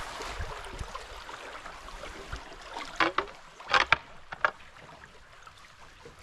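Canoe passing under low cedar branches: a rustle of branches and water, then a few sharp scrapes and knocks about three to four and a half seconds in.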